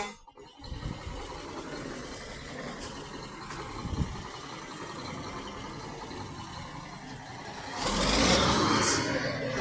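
Truck engine running steadily, with a louder rush of noise about eight seconds in.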